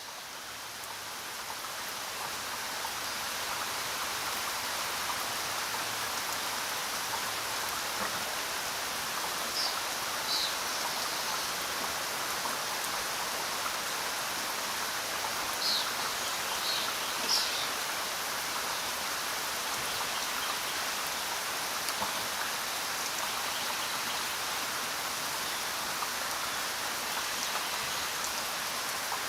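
Steady rain, an even hiss that fades in over the first few seconds, with a few short high chirps around the middle.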